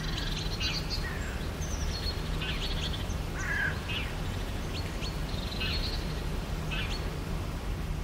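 Small woodland birds chirping, with short high-pitched calls and brief trills scattered throughout, over a steady low rumble.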